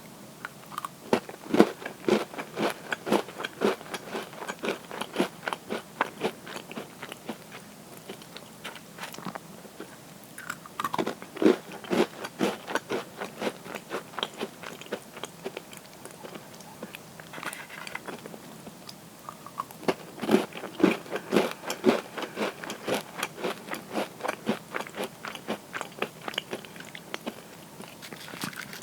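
Close-up crunching as cookies are bitten and chewed. There are three bouts of rapid, crisp chewing crunches, each opening with a louder bite.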